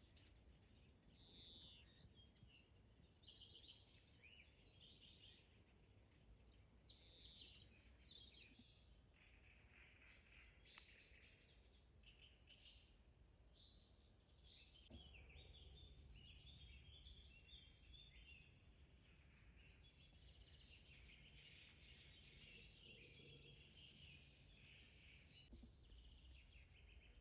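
Faint birdsong: many short chirps and trills from several small birds, over a low steady rumble that grows louder about halfway through.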